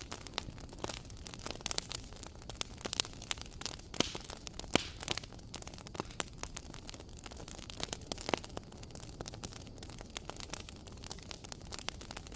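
Wood fire in a fireplace crackling, with frequent irregular sharp pops and snaps over a soft steady hiss.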